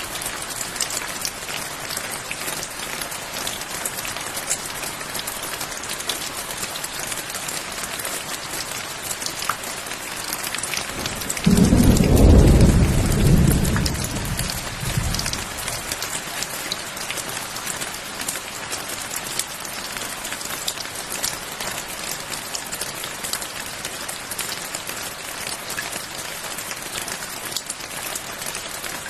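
Steady rain falling, with a dense patter of drops. About eleven seconds in, a single clap of thunder breaks in suddenly with a deep rumble that fades away over four or five seconds.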